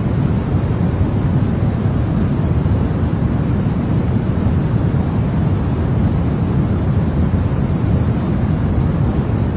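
Continuous, even 'white noise' for baby sleep, weighted toward the low end so it sounds like a deep, steady rushing rather than a bright hiss. There are no changes or separate events.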